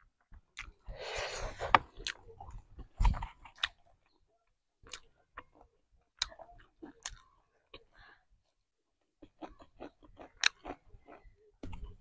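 Close-miked chewing and biting of a meal of masala chicken and rice: irregular wet mouth clicks and crunches, with a louder bite about three seconds in.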